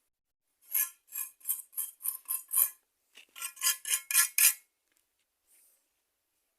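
A hand tool scraping a hard surface in quick back-and-forth strokes, two runs of about seven or eight strokes each with a short pause between.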